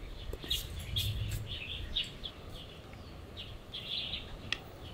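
Small birds chirping: short, high chirps scattered irregularly throughout, over a low background hum.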